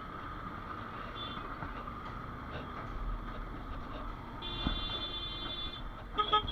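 Road traffic in a jam, heard from a motorcycle, with a steady engine and road noise. Several high horn tones sound: a longer one about four and a half seconds in, and a short, loud honk near the end.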